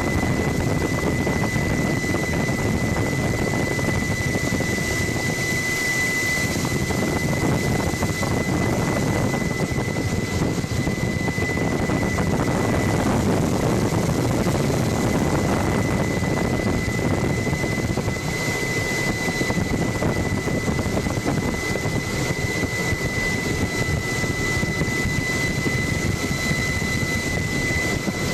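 Helicopter noise heard from on board: a steady, loud rotor and engine drone with a constant high tone above it.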